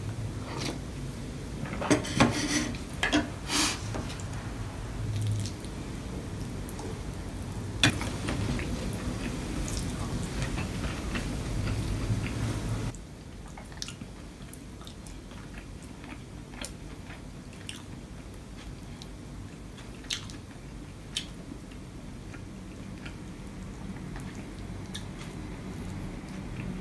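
A person eating close to the microphone: chewing and biting, with several sharp clicks. The sound drops suddenly to a quieter stretch about halfway through, with only a few clicks after that.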